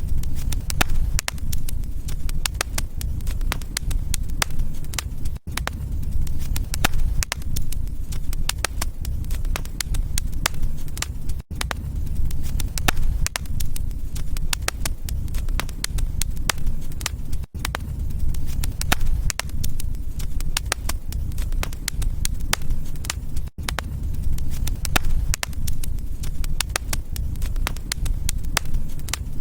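Wood fire crackling, with many sharp pops over a low rumble of flames. The sound cuts out for an instant about every six seconds, where a short looped recording restarts.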